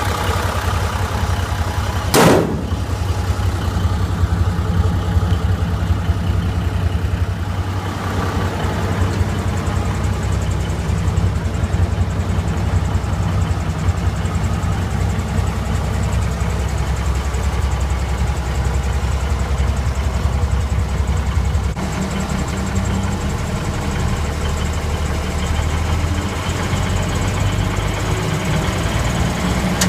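The 1971 AM General dump truck's diesel engine running steadily, with one sharp knock about two seconds in.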